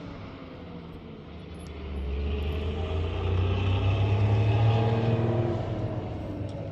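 A motor vehicle's engine running, growing louder about two seconds in and easing off again near the end.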